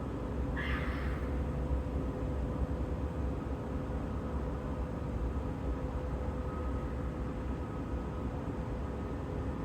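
One short animal call, about half a second long, a little after the start, over a steady low background rumble. The animal's species is unknown.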